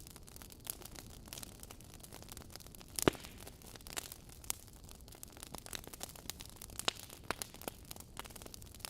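Wood fire burning in a fireplace: a low steady hiss with irregular crackles and snaps from the burning logs, the loudest pop about three seconds in.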